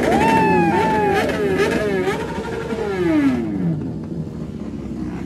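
Motorcycle engine, a KTM Duke 250's single cylinder, revving on the ride: the revs climb sharply at the start and waver up and down, then fall steadily away about three seconds in as the throttle closes.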